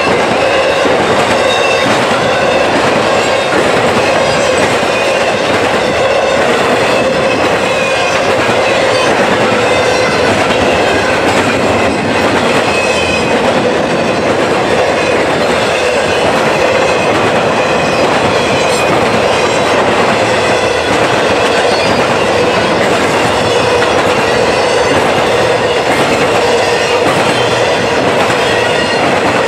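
Intermodal freight cars loaded with truck trailers rolling past: a steady loud clatter and rumble of steel wheels on the rails, with thin squealing tones coming and going.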